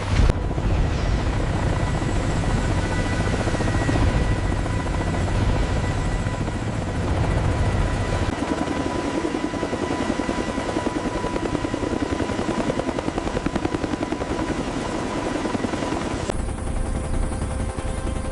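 Helicopter rotors beating steadily, with a faint steady high tone running under them. The low rumble thins about eight seconds in and returns near the end.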